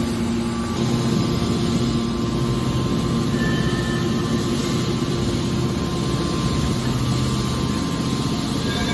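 Industrial machinery running steadily: an even mechanical hum with several constant tones over a noisy background, without breaks or distinct impacts.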